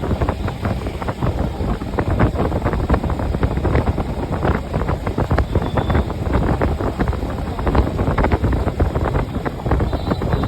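Wind buffeting the microphone in steady, irregular gusts over the low rumble of a moving car.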